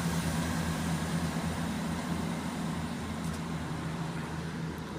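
Class 158 diesel multiple unit pulling away, its diesel engines running with a steady low drone that slowly fades.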